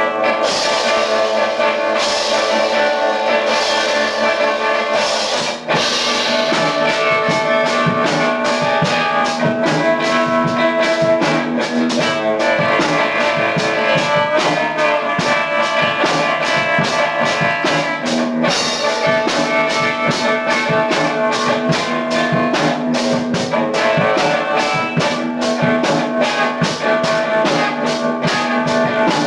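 Lo-fi rock band recording: electric guitar over a drum kit keeping a steady, fast beat, with a momentary break about six seconds in. The sound is thin in the bass.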